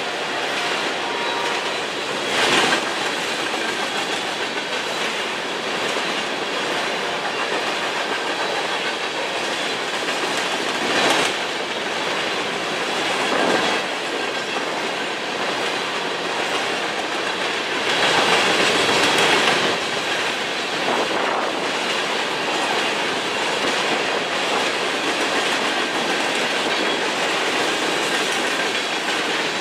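CSX covered hopper cars of a freight train rolling past, a steady clatter of steel wheels on the rails that swells louder briefly three times.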